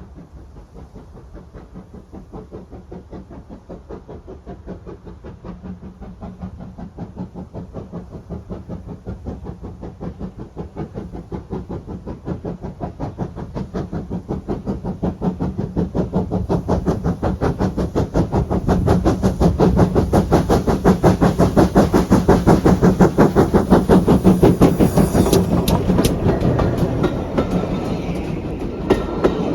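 Train approaching and running close by, its fast, even rhythmic beat growing steadily louder to a peak about two-thirds of the way through, then easing slightly.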